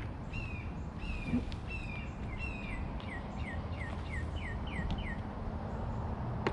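A songbird singing a run of repeated downward-sliding whistled notes, about two or three a second, that stops about five seconds in, over a steady low rumble of background noise.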